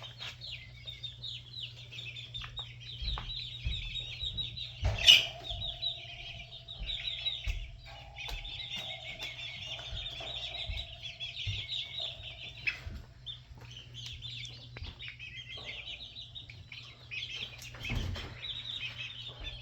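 A pen of six-week-old red jungle chickens giving a continuous chorus of rapid, high peeps. There is a sharp knock about five seconds in, and a lower steady note runs under the peeping for several seconds after it.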